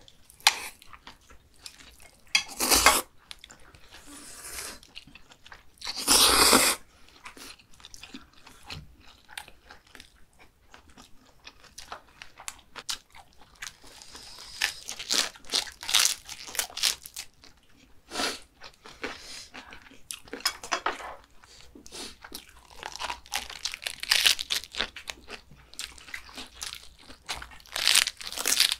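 People eating: crisp crunching and chewing of raw napa cabbage and kimchi, with many short crunches and busier stretches in the middle and near the end. Two longer, louder sounds come about three and six seconds in.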